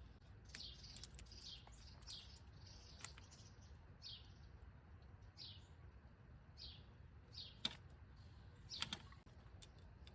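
Songbird giving short, high, downward-sliding chirps, repeated about every half second to second, with two sharp taps late on that are the loudest sounds.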